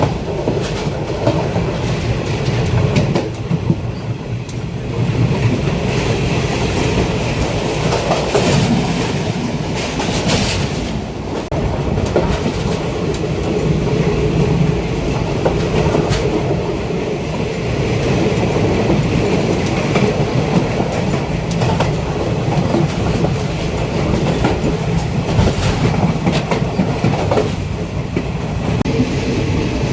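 Train running along the track: a steady low rumble with the wheels clicking over rail joints.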